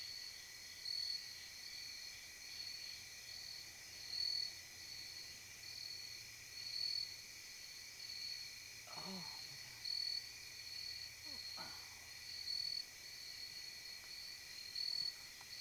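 A chorus of night insects, crickets, trilling steadily in two high pitches, the higher one swelling in a pulse about every second and a half.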